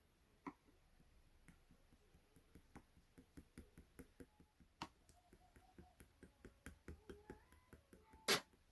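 A quiet run of small clicks and taps, several a second, with one louder knock near the end.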